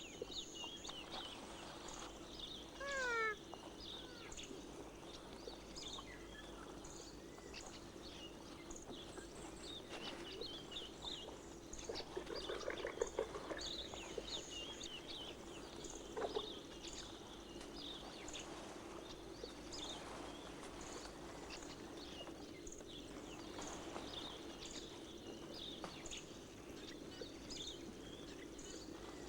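Forest ambience with many small high chirps and a steady low hum. About three seconds in comes a short falling meow-like call from a ring-tailed lemur, with a few more calls and rustles around the middle.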